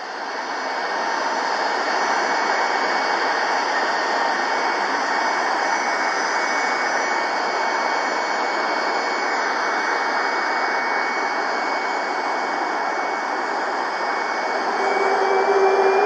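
An Air Canada Airbus A319's jet engines running steadily: a dense rush with whining tones on top. Near the end a high whine rises in pitch and the sound grows louder.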